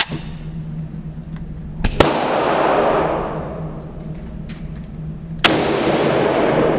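Handgun shots at an indoor range: two loud shots about three and a half seconds apart, each followed by a long echo dying away, with fainter shots from other lanes in between.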